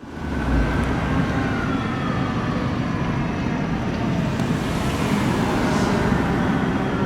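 Fire apparatus arriving: a heavy engine rumble with a siren tone slowly falling in pitch.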